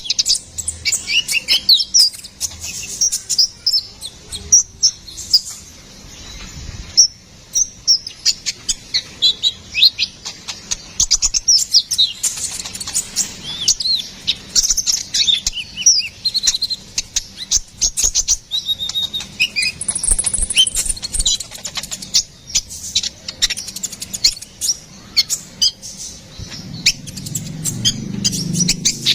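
Brown-throated sunbird (kolibri ninja, konin) singing a lively run of short, high, thin chirps and quick twittering notes in rapid bursts. A low rumble comes in near the end.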